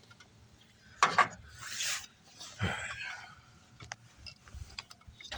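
Handling noises: a sharp knock about a second in, followed by brief rubbing and scraping sounds.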